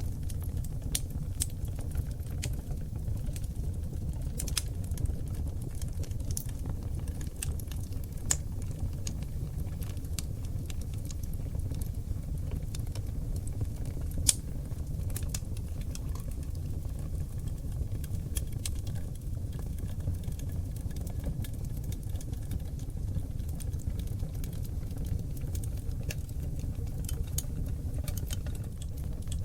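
Oak logs burning in a fireplace: irregular crackles and sharp pops over a steady low rumble of the flames, with one louder pop about halfway through.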